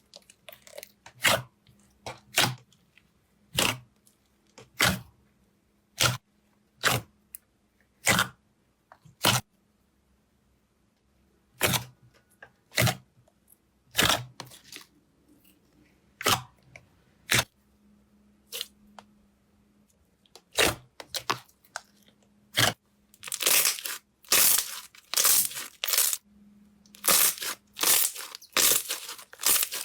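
Slime being handled, giving separate sharp crackles and pops about once a second, which grow into a fast, dense run of crackling in the last third.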